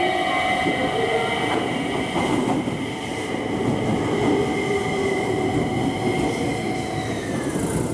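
Electric train running along the platform: a steady rumble with several steady whining tones, one of which falls in pitch near the end.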